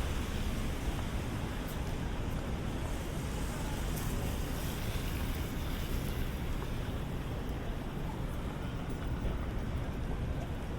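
Steady city street noise: passing traffic mixed with the hiss of rain and wet roads.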